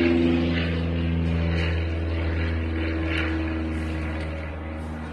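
A steady engine drone, loudest near the start and slowly fading.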